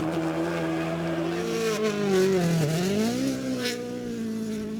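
Rally car's turbocharged four-cylinder engine running hard at steady revs; the pitch drops about halfway, then climbs again as the throttle comes back on. There is a short sharp crack near the end.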